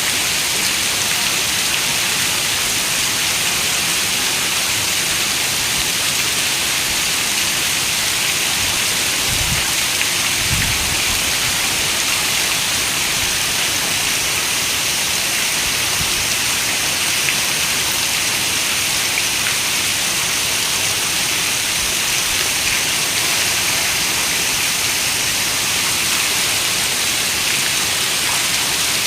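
Steady rain falling, an even hiss, with two brief low thuds about nine and ten seconds in.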